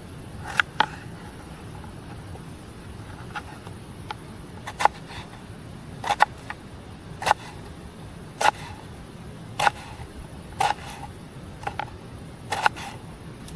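A series of sharp knocks or taps, about one a second and fairly even, over a steady low background noise.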